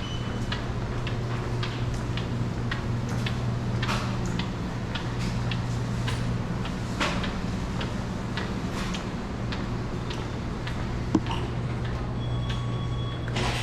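Steady low mechanical hum with irregular clicks and ticks throughout, and a short high beep near the end.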